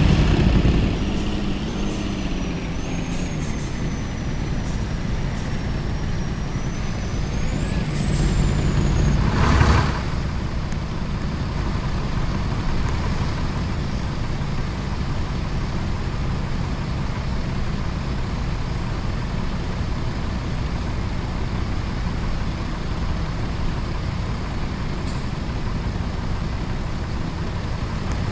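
Truck on the move: steady engine and road noise. About ten seconds in there is one short, loud burst of hiss.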